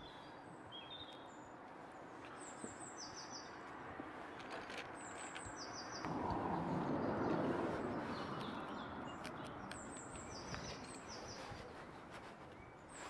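A small songbird chirping: short high notes in quick groups of two or three, repeated every second or two. Behind it is a steady outdoor background hiss that swells and fades again about halfway through.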